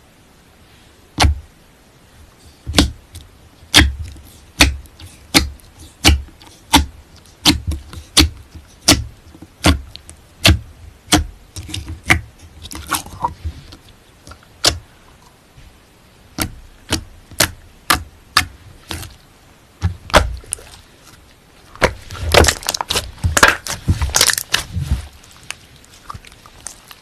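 Slime being pressed and squeezed by hand, giving a string of sharp pops and clicks about one or two a second, with a denser flurry of them near the end.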